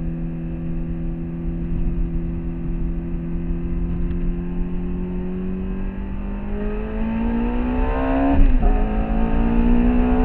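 Ferrari F430's 4.3-litre V8 engine heard from inside the cabin, holding a steady note for several seconds, then revving up under acceleration. Its pitch breaks and drops at an upshift about eight seconds in, then climbs again.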